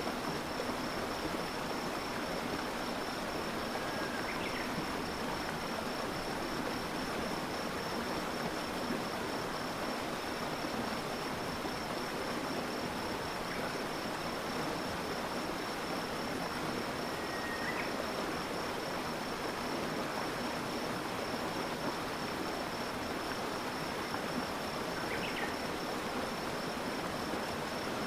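Stream water flowing steadily, with a continuous high-pitched trill running over it throughout. A few brief chirps come through at scattered moments.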